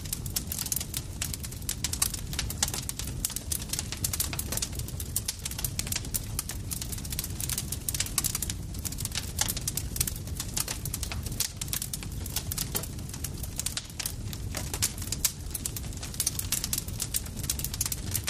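Campfire crackling: dense, irregular sharp pops and snaps of burning wood over a steady low rumble of the flames.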